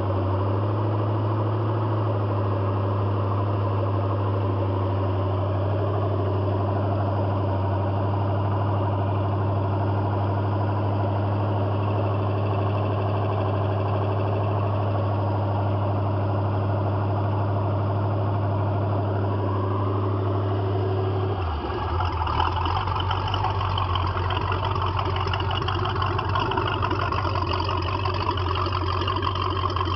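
MerCruiser 233 Ford-based V8 marine engine running, a steady idle for most of the time, then changing about two-thirds of the way in to a rougher, noisier sound.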